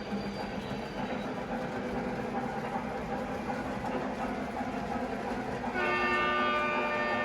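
Train running steadily, then a multi-tone horn chord sounds about six seconds in and holds to the end.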